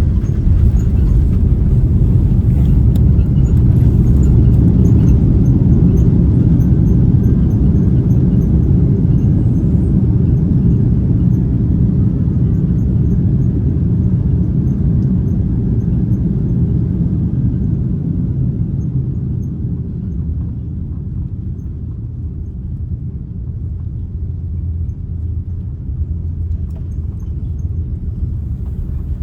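Low rumble of a China Southern Airbus A330 landing, heard from the passenger cabin. It is loudest in the first several seconds and then dies away gradually as the jet slows on the runway.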